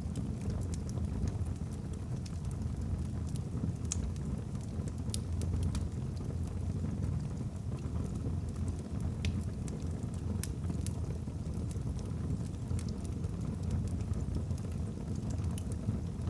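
Wood fire burning in a fireplace: a steady low rush of flame with scattered sharp crackles and pops from the burning logs.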